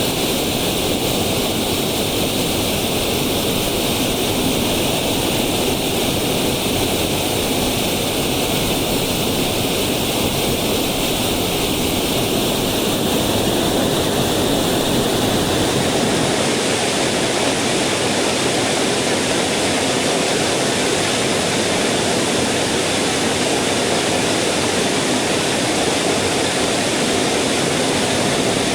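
Mountain stream rushing steadily over rocks, a constant water noise. Its tone changes a little over halfway through.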